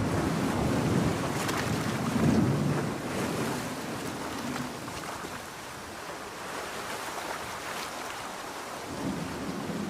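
Storm ambience of ocean surf and rain: a low thunder rumble over the first few seconds dies away, leaving a quieter, steady wash of waves and rain.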